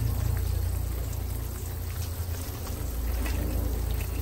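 Tap water running steadily from a spray faucet into a stainless steel sink, splashing on the metal bottom and swirling down the drain, with a low rumble underneath.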